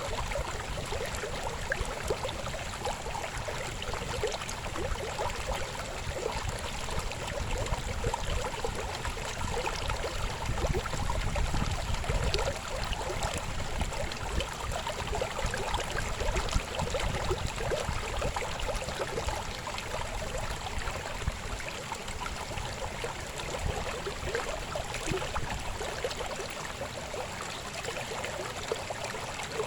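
A shallow river babbling and gurgling over stones in a steady rush of water, with a low rumble underneath.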